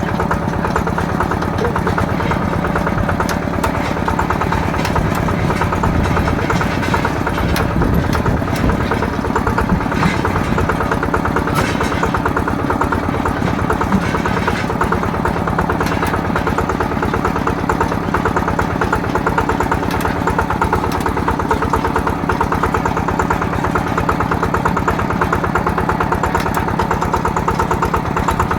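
Yanmar TF120 DI single-cylinder diesel engine of a mini tractor running steadily, with a rapid, even chug.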